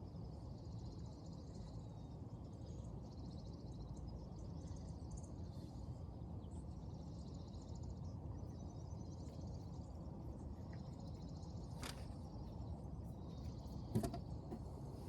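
Outdoor background: a steady low hum with high-pitched trilling that comes and goes, then a light click and, near the end, a sharper knock.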